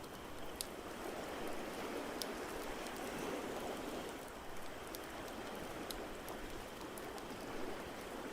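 Ambience mix of ocean surf as a steady wash with gentle swells, and a wood fire crackling in a fireplace with scattered sharp pops.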